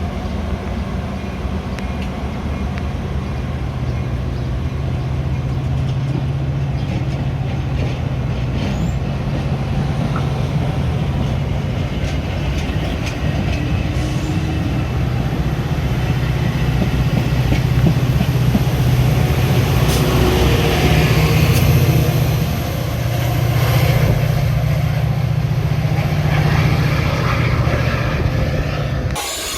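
Metra commuter train running, a steady low drone with rumbling noise that grows slightly louder, cut off abruptly near the end.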